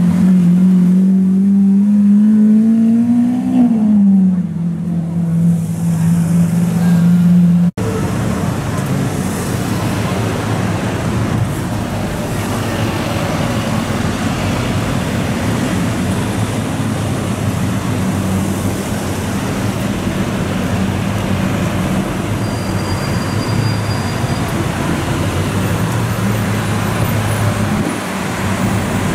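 Lamborghini Aventador V12 engine driving slowly past, its note rising for a few seconds and then dropping back and holding steady. After a cut, steady street traffic noise with the low note of an Aventador Roadster's engine creeping along in traffic.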